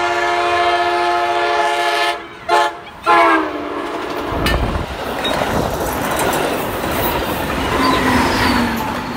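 Amtrak Pacific Surfliner train passing at speed. Its horn sounds a chord to about two seconds in, then a short blast and a last blast that drops in pitch as the lead car goes by. The rush and rumble of the bilevel cars and the pushing locomotive on the rails follows.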